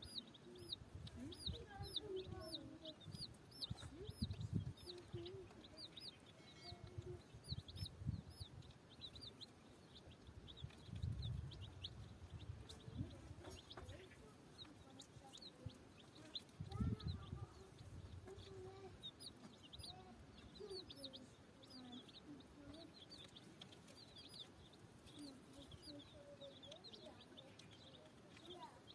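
Baby chicks peeping: many short, high chirps in quick runs, fewer for a while around the middle, with low irregular thumps and rumbles underneath.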